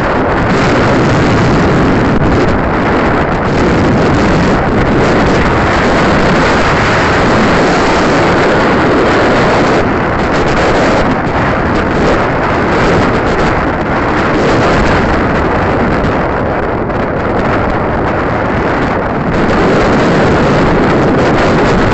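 Strong coastal wind buffeting the microphone: loud, continuous rushing noise that eases slightly a few times.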